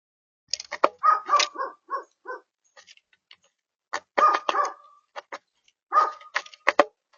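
Red-bellied woodpecker calling: three bursts of short, harsh repeated notes, a few per second, with a few sharp taps among them.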